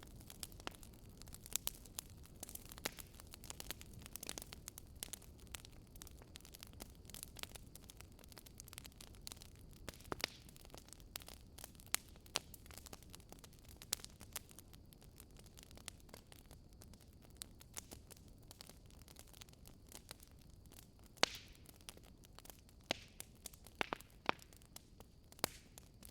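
Wood fire crackling: irregular sharp pops and snaps, a few louder ones scattered through, over a soft steady hiss.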